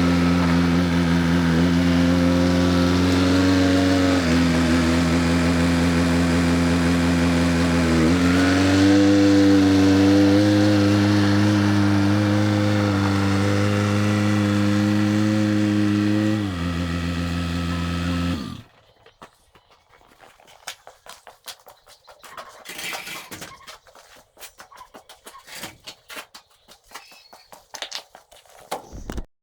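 An engine running steadily, its pitch shifting a few times, then stopping abruptly about two-thirds of the way through; faint scattered clicks and knocks follow.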